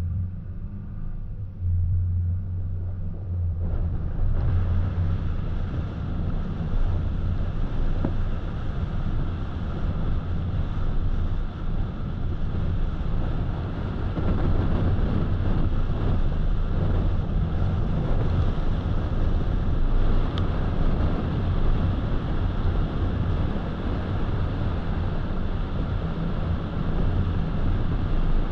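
Car driving on a road: a steady low engine and tyre hum with road noise, which grows louder and wider about four seconds in and then holds steady.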